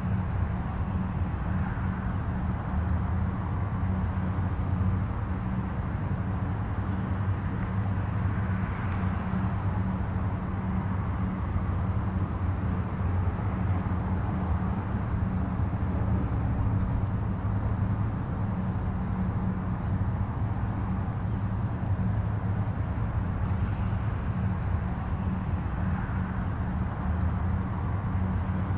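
Distant highway traffic: a steady low rumble with a soft haze above it that swells gently now and then as vehicles pass.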